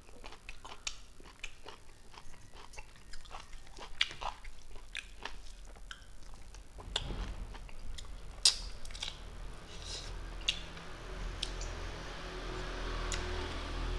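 Close, wet mouth sounds of a person eating rice and curry by hand: chewing with many short lip-smacking clicks. From about halfway a low steady hum and a soft hiss come up underneath and grow louder.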